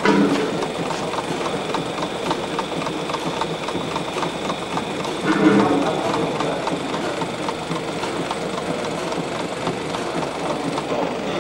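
Small running engines from a collection of model heat engines, clattering with a fast, regular ticking over a steady mechanical hum. There are louder, lower bursts at the start and about five and a half seconds in.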